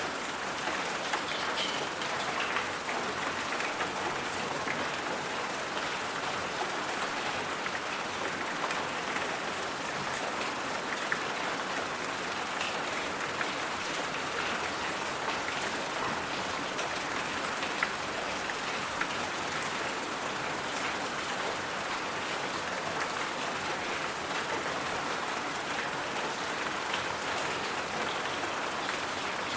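Steady rain falling: an even hiss with faint drop ticks scattered through it.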